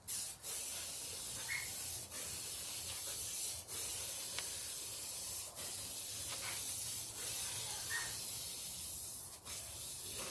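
Aerosol spray can hissing as black paint is sprayed onto a car hood in long passes, the hiss broken by short breaks every second or two as the nozzle is released between passes.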